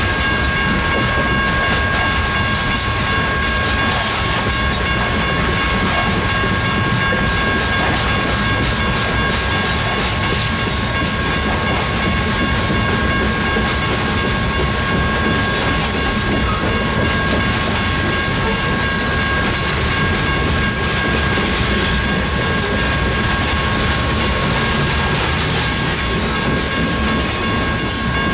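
Unit coal train's hopper cars rolling past steadily, steel wheels clacking over the rails, with a steady high ringing tone held over the noise.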